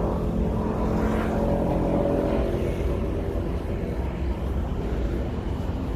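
A motor vehicle driving past on a city street: engine hum and tyre noise over a steady low traffic rumble, loudest in the first half and fading away after a few seconds.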